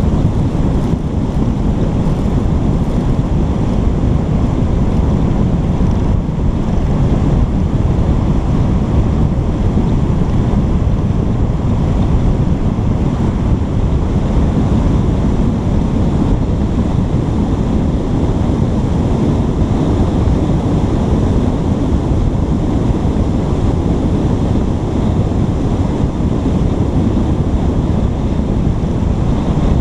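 Steady wind buffeting a GoPro's microphone: a continuous low rumble that holds at one level throughout.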